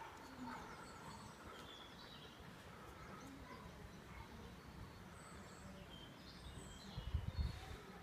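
Faint outdoor ambience: small birds chirping and singing, short high calls scattered throughout, over a low steady rumble. A brief louder low rumble about seven seconds in.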